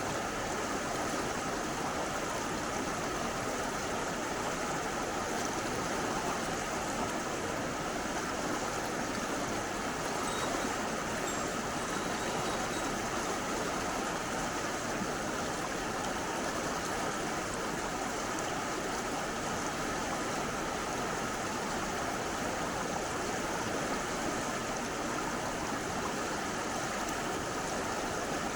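Mountain stream water rushing steadily, an even, unbroken sound.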